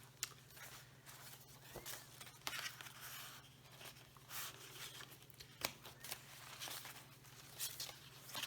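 Paper and card being handled: soft, scattered rustles and light ticks as loose paper pieces are shuffled and laid down, over a faint steady low hum.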